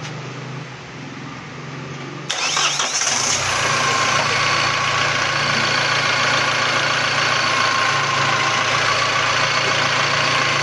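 A vehicle engine starts abruptly a little over two seconds in and then runs steadily, loud, with a steady whine over the running. A lower steady hum is heard before it starts.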